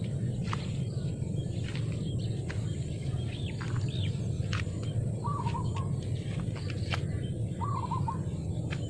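Small birds calling over a steady low rumble: two brief arching chirps a little past three and four seconds in, then two quick warbling trills, one past five seconds and one near eight. Light scattered clicks come and go throughout.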